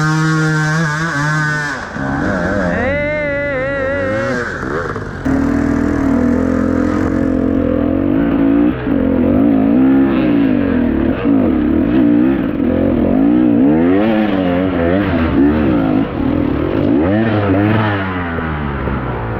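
Dirt bike engine being ridden hard: it holds a steady high pitch for about two seconds, then revs repeatedly up and down as the throttle is worked.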